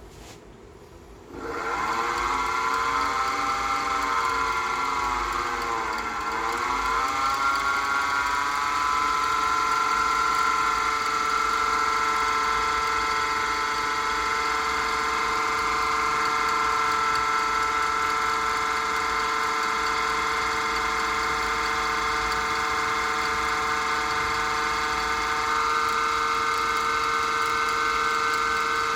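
Small variable-speed wood lathe motor starting up about a second in, its pitch shifting and dipping as the speed is set over the next several seconds, then running at a steady speed with a whine.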